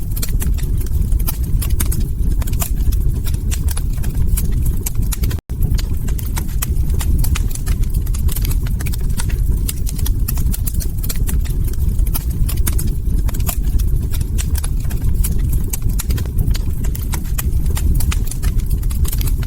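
Log fire crackling in a fireplace: a steady low rumble of burning with a dense stream of sharp pops and snaps. The sound cuts out for an instant about five seconds in.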